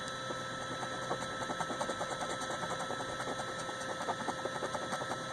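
Rapid, even scraping strokes, several a second, of a scratch-off lottery ticket's coating being scraped off with a knife blade, over a faint steady hum.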